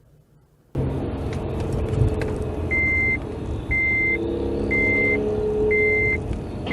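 A vehicle's reversing alarm beeping about once a second on a single high tone, over engine and road noise that starts suddenly about a second in.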